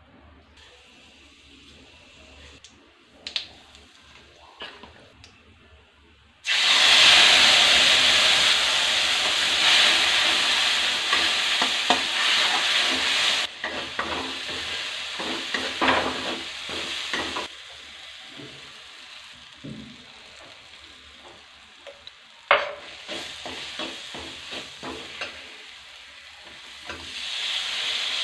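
Food frying in hot oil in a metal kadai. For the first few seconds only faint sizzling and a few clicks, then about six seconds in a sudden loud sizzle as ground spice masala goes into the oil. It keeps sizzling and slowly dies down while a steel spatula scrapes and stirs, and near the end the sizzle rises again as chopped tomatoes are added.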